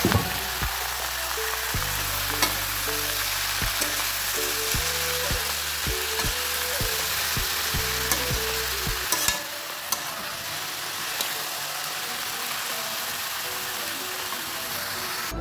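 Shredded ash gourd sizzling in hot oil in a metal karahi while it is stirred with a metal spoon, with occasional sharp clicks of the spoon against the pan.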